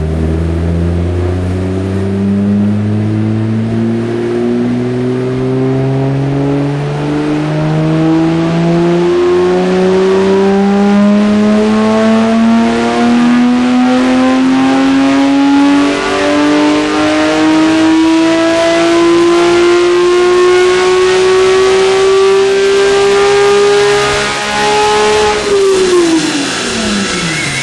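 Porsche 997 GT3 flat-six with a SharkWerks track exhaust making a full-throttle dyno pull: the engine note climbs slowly and evenly from low revs to near redline for about 25 seconds. Near the end the throttle is closed and the revs fall away quickly.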